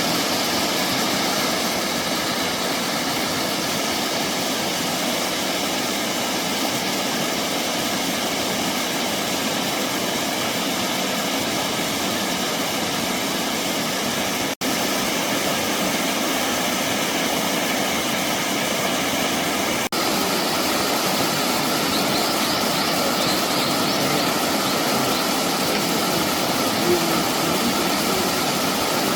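Steady rush of flowing water from a mountain stream, with two brief dropouts about halfway and two-thirds of the way through.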